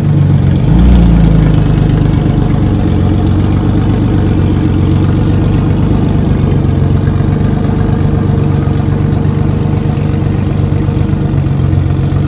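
Heavily modified 2000 hp Nissan GT-R R35's twin-turbo V6 idling, with a brief rev about a second in, then settling back to a steady idle.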